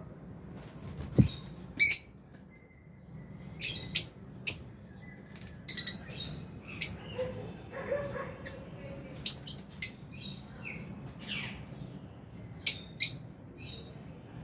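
A flock of lovebirds in an aviary giving short, sharp, high-pitched chirps at irregular intervals. There is a brief low thump about a second in.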